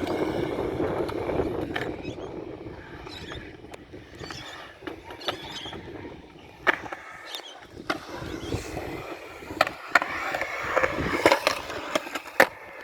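Skateboard wheels rolling on concrete, with the metal trucks grinding a 50-50 along a hubba ledge and several sharp clacks of the board popping and landing.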